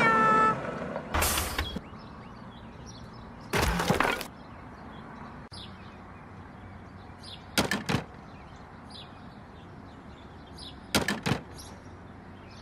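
Four short, sharp knocks or clatters, spaced a few seconds apart, over a low steady background hiss with faint bird chirps.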